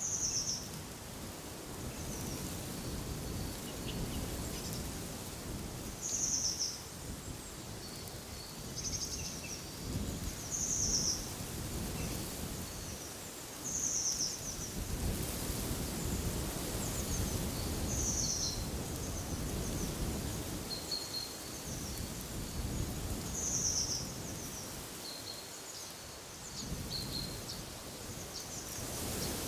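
Wind blowing in gusts with a low rumble, while a small bird repeats a short high call every few seconds.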